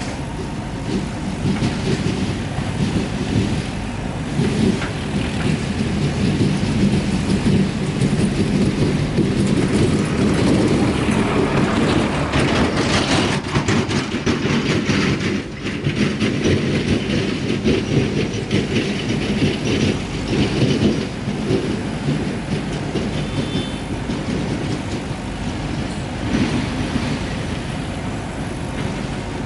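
Diesel engine of a JCB backhoe loader working under load, a steady low rumble that swells through the middle, with a spell of clattering about halfway through.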